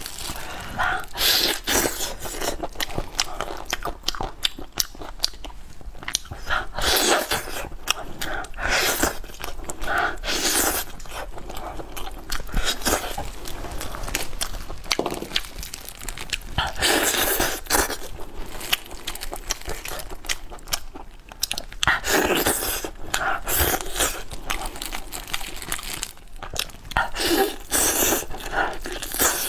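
Close-miked biting and chewing of a roast chicken leg, the mouth sounds coming in uneven bouts, along with the meat being pulled apart by hand.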